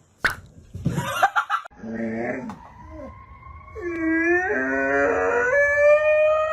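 A dog howling: long drawn-out notes that slowly rise in pitch, after a short knock and a rustle at the start.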